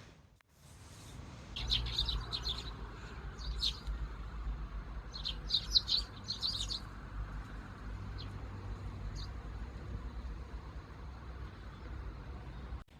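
Pet parakeets chirping in short bursts of quick high chirps, with a few single chirps later, over a low steady rumble.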